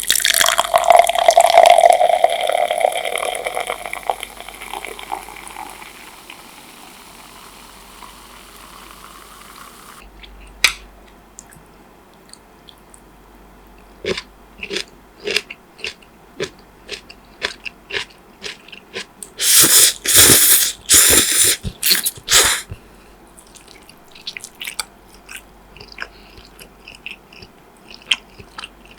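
Close-miked eating: scattered crisp bites and chewing clicks, with about three seconds of loud crunching two-thirds of the way through. It opens with a loud sound carrying a steady tone that fades and cuts off suddenly about a third of the way in.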